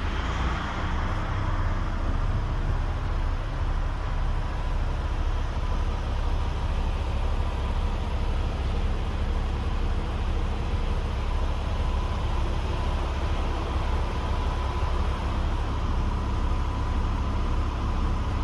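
DAF CF460 tractor unit's PACCAR six-cylinder diesel engine idling steadily, a constant low rumble.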